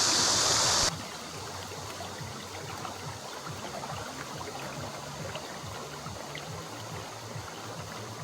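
Mountain stream rushing loudly, cut off abruptly about a second in, leaving a much quieter low, rumbling wash of sound.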